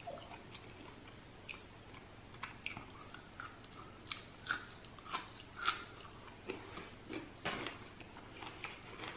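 Close mouth sounds of a person biting into and chewing a cooked asparagus spear: faint, irregular crunches and wet smacks.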